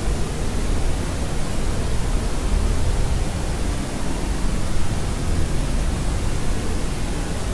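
Steady pink-leaning white noise, an even hiss with a heavier low rumble, unchanging throughout.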